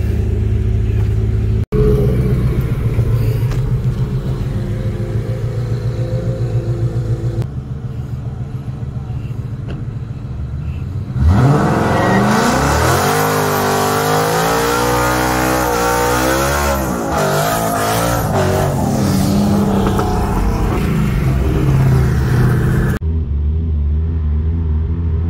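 Car engines rumbling at low speed, then about halfway through a twin-turbo Ford Mustang 5.0 and a big-turbo Nissan GT-R accelerating hard in a roll race, the engine pitch climbing and dropping again and again as they shift up through the gears. Near the end, after a cut, a steady low engine rumble at cruising speed.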